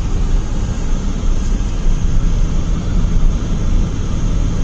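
Steady road and engine noise heard from inside a moving car: a constant low rumble with a hiss of tyres.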